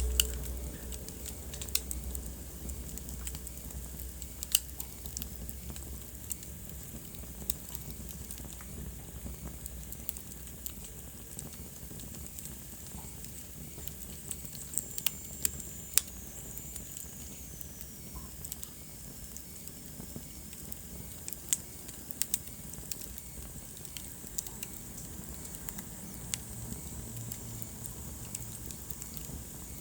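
Wood fire crackling in a fireplace: irregular sharp pops and snaps over a steady hiss. Midway a thin high whistle slides down in pitch.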